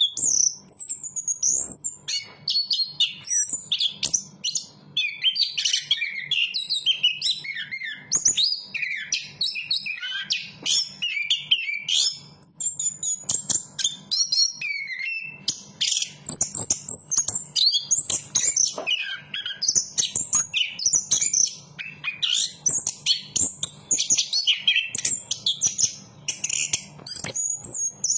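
Chestnut-capped thrush singing a continuous, rapid, varied song of whistled notes, trills and chirps, with hardly a pause.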